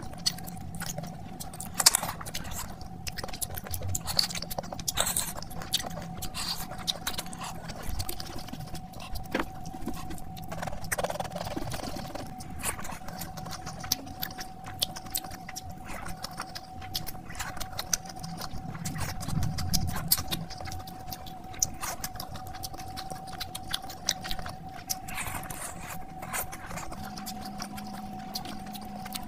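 Close-miked eating sounds: wet chewing, lip smacking and finger licking as fried fish, rice and curry are eaten by hand, with squelching as fingers mix the rice into the curry. A faint steady hum sits underneath.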